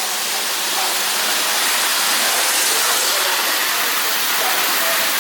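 French Hornby tinplate model trains running at full speed around the track, a steady rushing noise with no distinct knocks or crashes.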